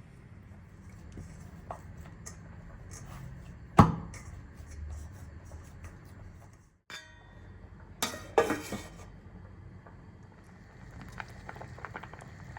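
Kitchen handling sounds: dishes and utensils being set down and moved, with one sharp knock about four seconds in and a short clatter a little after eight seconds, then a few light clicks near the end.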